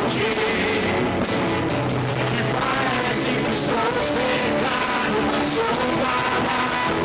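Worship music: a band playing steadily, with voices singing.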